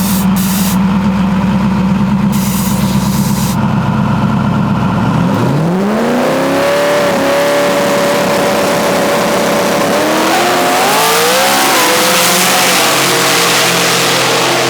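Pickup truck engine running with a steady, pulsing low idle, then about five seconds in revving up in a sharp rising sweep and holding high as it accelerates, its pitch climbing further in a couple of steps later on.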